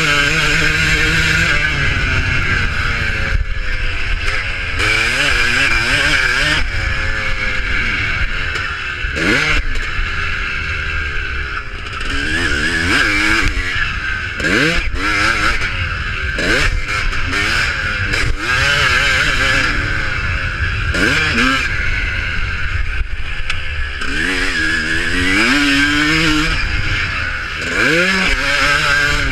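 Motocross bikes racing, their engines revving up and falling away over and over as riders open and close the throttle and pass by.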